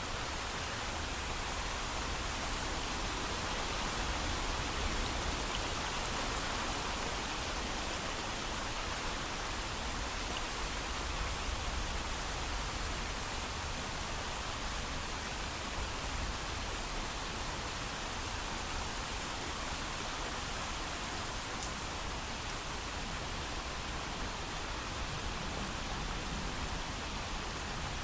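Heavy rain falling steadily without thunder, an even hiss with no single drops standing out.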